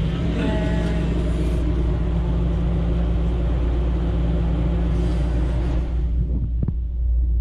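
Passenger train rolling, with a steady low rumble and hum. A few sharp clicks come near the end.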